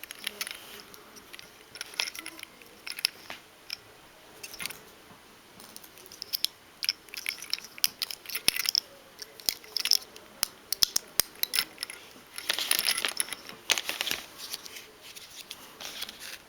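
Small hard plastic toy pieces handled: irregular clicks, taps and light rattles, with a short rustle about twelve seconds in.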